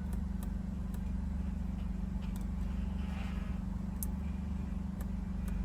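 The Alfa Romeo Stelvio Quadrifoglio's twin-turbo V6 idles steadily with a low drone, still cold from the start and sounding subdued. A few faint sharp ticks are scattered over the idle.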